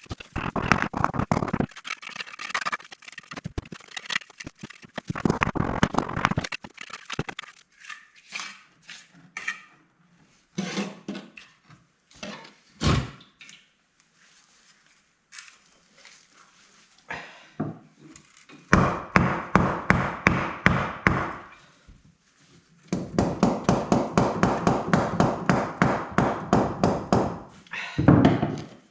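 Scattered knocks, then two long runs of rapid, even scraping strokes at about eight a second in the second half, from a hand tool being worked back and forth.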